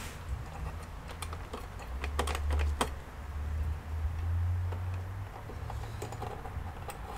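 Scattered light clicks and taps of hands working on the plastic case of an all-in-one computer, several in quick succession about two to three seconds in, over a low rumble of handling.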